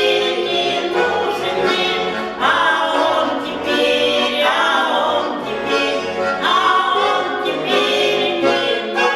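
Small vocal ensemble singing a song in harmony over instrumental accompaniment.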